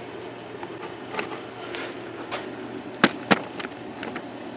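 A few sharp clicks and taps of a test light and wires being handled against the sawmill's metal frame, the two loudest a quarter second apart about three seconds in, over a steady faint hum.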